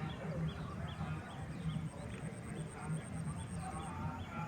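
Birds chirping outdoors: one short call repeated about twice a second, over a steady fast-pulsing high buzz that stops near the end.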